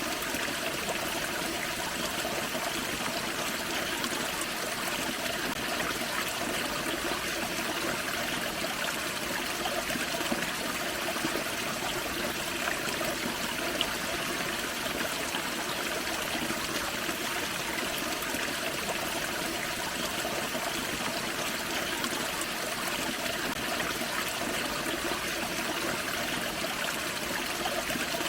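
Small forest waterfall and creek running steadily: an even rush and trickle of water.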